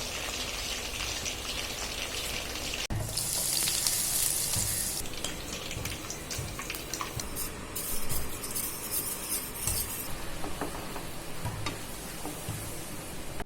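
Food sizzling in hot oil, with a utensil clinking and scraping now and then. The sizzle changes abruptly about three seconds in and again near eight seconds, turning brighter and hissier for a couple of seconds each time.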